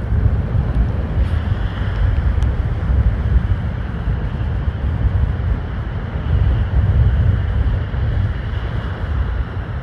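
Strong wind buffeting the microphone, a low rumble that swells and eases in gusts, over a steady hiss of surf breaking on the beach.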